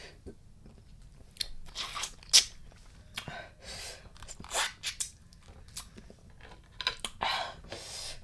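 Close-miked eating sounds: a person chewing and crunching mouthfuls of spicy blue crab salad in irregular crisp bites, one sharp crunch about two and a half seconds in.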